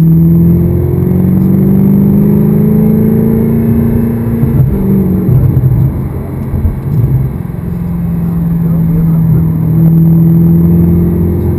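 Audi R8's 4.2-litre V8 with a full aftermarket exhaust, heard from inside the cabin under hard acceleration. Its pitch climbs with a gear change about a second in, goes choppy and uneven as the driver lifts and brakes around the middle, then rises steadily again on the throttle.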